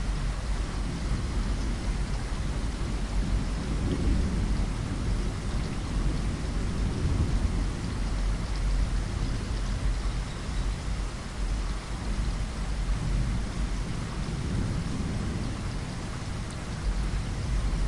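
Steady rain pattering against a window glass, with a deep low rumble swelling and fading underneath.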